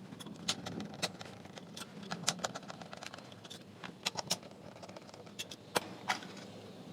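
Irregular sharp clicks and light taps of hand tools and plastic parts being handled while a speaker driver is worked out of its enclosure, some coming in quick clusters.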